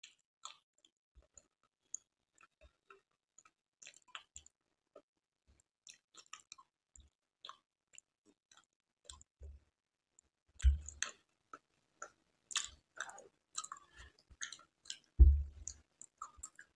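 Close-miked mouth sounds of chewing Indian sweets: many small wet clicks and smacks, growing busier in the second half, with two louder low thumps, about eleven and fifteen seconds in.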